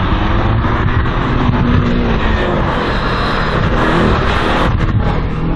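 Race car engine revving hard during a timed slalom run, its pitch rising and falling several times.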